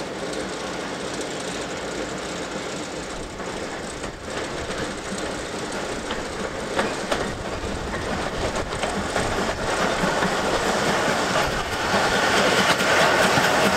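Train running on rails, its wheels clicking over the rail joints, growing louder toward the end as it comes closer.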